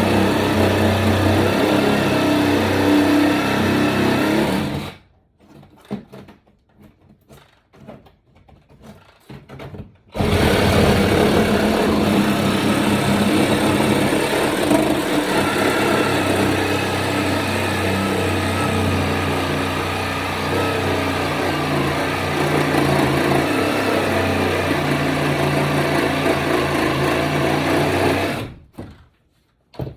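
Power saw cutting through the floor in two runs: about five seconds, a pause of about five seconds with small knocks, then a long steady cut of about eighteen seconds that stops suddenly.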